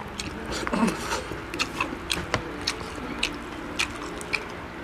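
Close-miked chewing of crispy fried field frog: a steady run of irregular crunchy clicks and mouth smacks.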